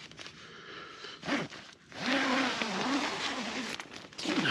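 A tent being opened from inside: a zip pulled and tent fabric rustling. There is a short sharp sound about a second in, and then a dense scraping rustle for about two seconds.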